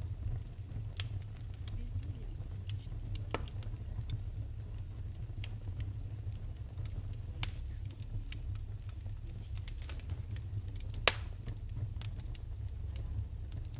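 Wood fire crackling in a fireplace: scattered sharp pops over a low steady rumble, with one loud pop about eleven seconds in.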